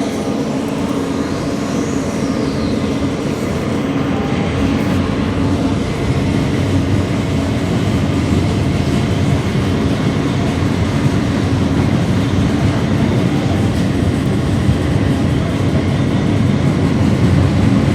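Subway train running along the track with a steady rumble that grows gradually louder as it gathers speed. About two seconds in, a thin high whine rises and then falls away.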